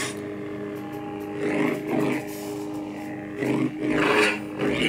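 Lord Blako's "The White" lightsaber sound font playing from a custom saber's 28mm full-bass speaker: a steady pitched hum, swelling and falling three times as the blade is swung.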